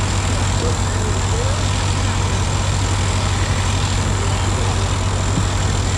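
A large engine running steadily at an even idle, a constant low hum with no change in speed.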